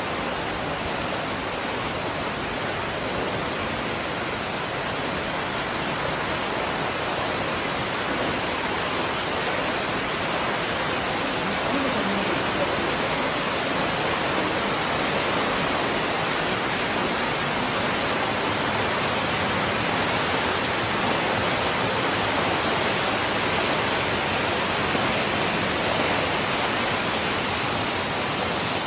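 Waterfall cascading down over rocks: a steady, even rush of water.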